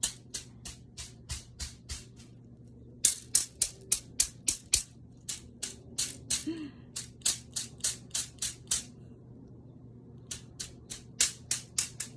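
A bundle of bamboo rods striking the body in quick, sharp clattering hits, about three a second, with a break of over a second roughly three-quarters of the way through.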